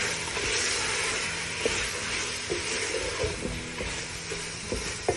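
Chicken and julienned vegetables sizzling in a hot frying pan while being stirred with a spatula, with scattered scrapes and knocks of the spatula against the pan, one sharper knock near the end.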